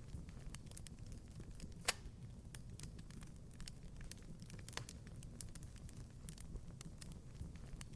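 Wood fire crackling in a fireplace: a steady scatter of small ticks with two louder pops, about two seconds in and again near five seconds, over a low rumble.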